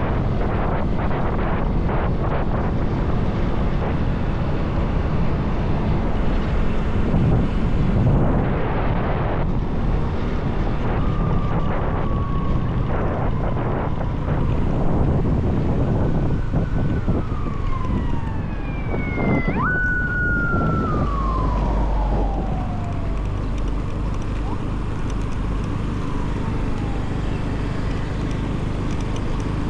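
Road noise of a motorbike ride on a highway: steady wind buffeting the microphone over engine and traffic rumble. Through the middle, several tones slide downward in pitch, the loudest starting suddenly about twenty seconds in and falling over a few seconds.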